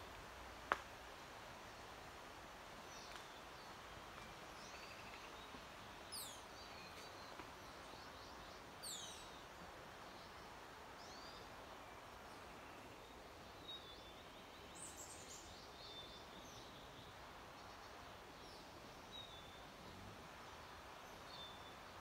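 Wild birds singing: scattered short high chirps and a few quick whistles that fall steeply in pitch, over a faint steady hiss. A single sharp click sounds just under a second in.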